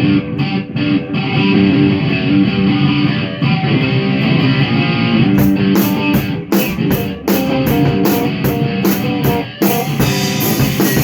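A rock band playing in rehearsal. Guitar chords start it alone, and the drum kit comes in with cymbal and hi-hat hits about halfway through.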